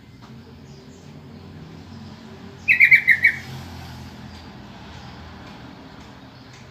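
Sooty-headed bulbul calling: one short, loud burst of about five quick falling notes, about two and a half seconds in.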